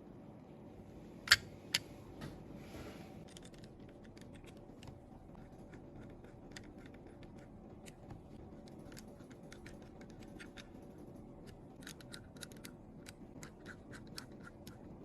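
Small hand tools clicking, tapping and scraping on a phone's parts during repair: a sharp click about a second in, a second one just after, a brief scrape, then many light irregular ticks.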